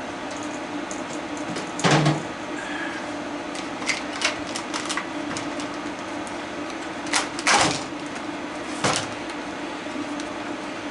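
Hard plastic parts and hand tools clicking and knocking as an animatronic decoration is taken apart by hand, with two louder clunks about two seconds in and past seven seconds. A steady hum runs underneath.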